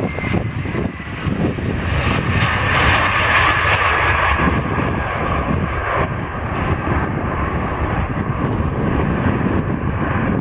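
Airliner's engines heard close by as the plane passes: a loud steady engine noise with a high whine over a low rumble, loudest about three to five seconds in.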